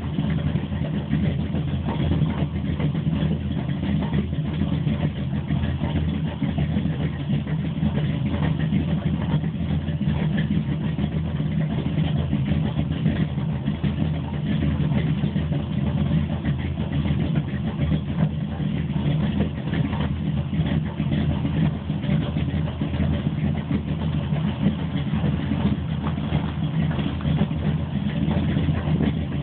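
Chevrolet ZZ502 big-block V8 crate engine with Powerjection III throttle-body fuel injection idling steadily, with no revving or change in speed.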